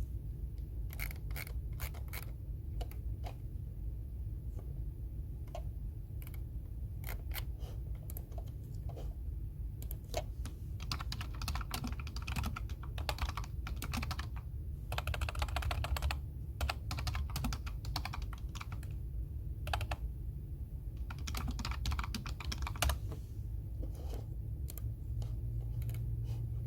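Typing on a computer keyboard. There are scattered keystrokes at first, then bursts of fast typing from about ten seconds in, with short pauses between them, over a steady low hum.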